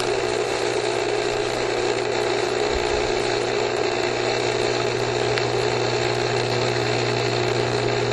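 Swimming pool pump running steadily, circulating the pool water: a constant motor hum with an even hiss over it, starting abruptly.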